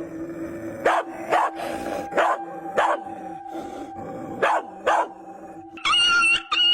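A dog barking, about six sharp barks a half-second to a second apart, over a steady low hum. Near the end a high, wavering tone sets in.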